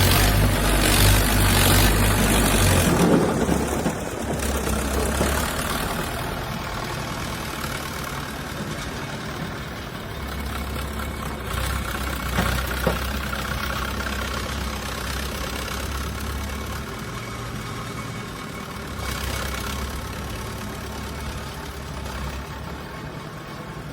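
Diesel engine of heavy construction machinery running. It is louder for about the first three seconds, then drops to a quieter, steady run with a low rumble that comes and goes.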